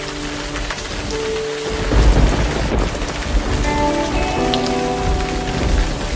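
Steady rain hiss with a low rumble of thunder about two seconds in, over soft music with long held notes.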